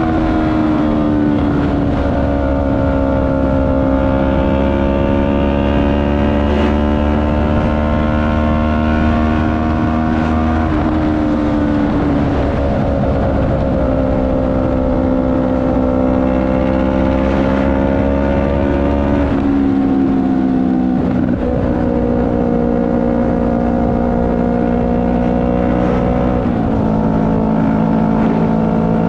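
CFMoto 400NK's parallel-twin engine running under way, its note holding fairly steady and then changing pitch suddenly a few times, about 10, 19 and 26 seconds in, as gears are changed.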